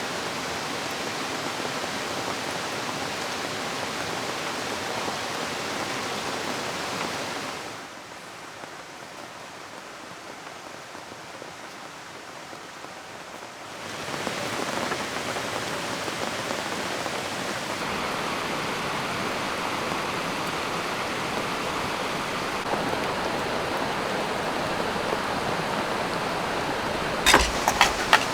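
Steady rushing of a flowing river mixed with falling rain. It drops quieter for several seconds in the middle, then comes back up. A few sharp knocks come near the end.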